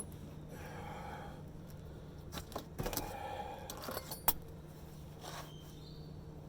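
Light metallic clinking and scraping of hand tools and small steel hardware being handled during exhaust repair, with a cluster of sharp clicks in the middle.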